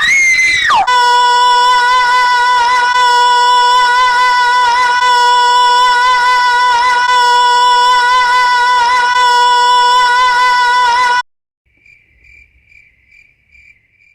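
A loud, steady high-pitched tone, reached after a quick falling glide at the start, holds unbroken for about eleven seconds and then cuts off suddenly. A faint rapid pulsing beep follows near the end.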